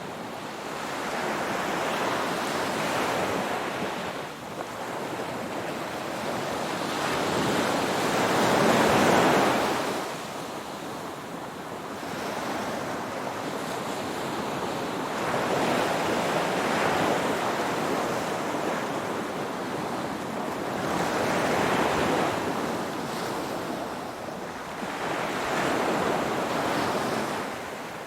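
Ocean waves breaking and washing on a shore: a steady surf hiss that swells and falls back every few seconds, the biggest wave about a third of the way in.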